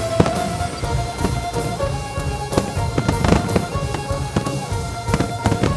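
Fireworks going off, many irregularly spaced bangs and crackles, over music with held tones.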